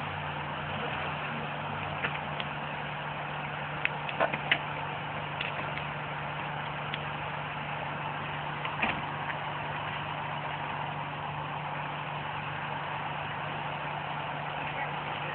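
Car engine idling steadily, with a few short clicks, most of them around four seconds in.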